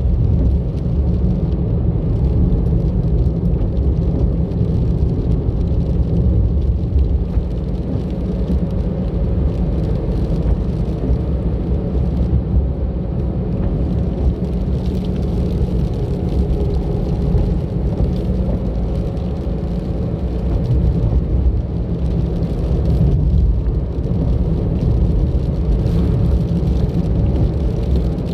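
Car driving along a road: a steady, low rumble of tyre and engine noise that swells a little now and then.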